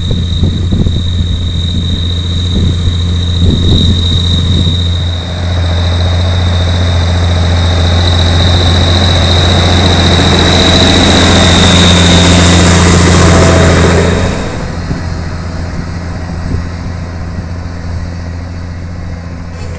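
New Holland TS135A tractor's diesel engine running while ploughing, with a steady high whine above the engine note. It grows louder from about six seconds in and drops back suddenly around fourteen seconds.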